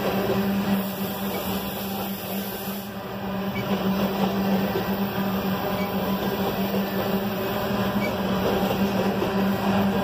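Coal hopper cars of a freight train rolling past at track side: a steady rumble and rattle of steel wheels on rail, with a steady low hum underneath.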